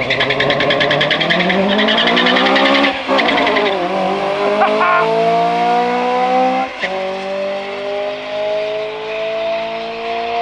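A single car accelerating down a drag strip at full throttle, its engine note rising through a gear, shifting about three seconds in and again near seven seconds, then pulling away with the pitch climbing steadily.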